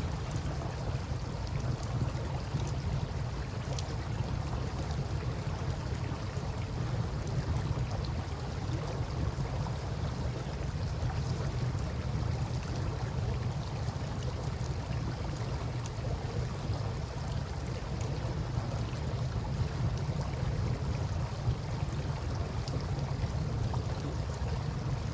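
Wood campfire crackling with scattered small pops over the steady rush of flowing river water.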